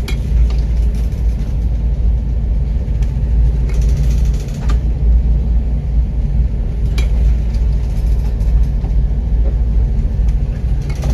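Loud, steady low rumble on board a car-carrying ship in heavy seas, with a few sharp knocks and clanks around four to five seconds in and again about seven seconds in.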